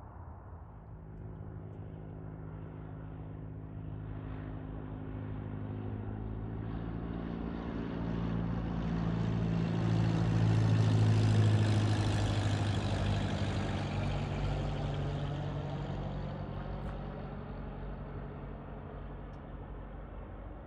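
An airplane flying past: its low engine drone, with several steady pitches, grows louder, peaks about eleven seconds in, then fades away.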